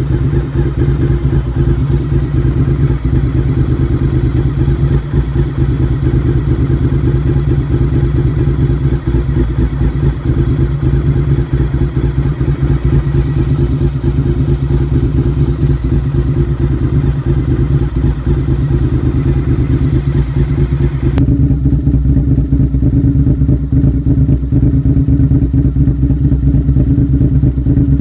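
Honda VTR1000 SP1's 90-degree V-twin idling steadily through Ladybird MotoGP-style aftermarket exhausts. About 21 seconds in, the sound changes abruptly and loses its highs.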